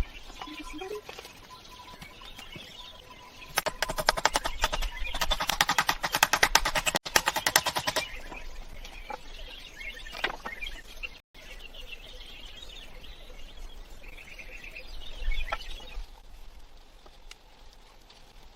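Rapid clicking or tapping in dense runs, loudest in the first half, with birds chirping in the background.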